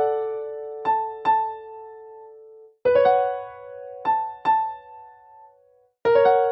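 Background music: a slow, gentle piano melody, a chord struck about every three seconds with two quick single notes between.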